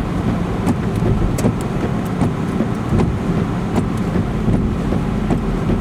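Steady low rumble of road and wind noise inside a moving car, with a few faint ticks.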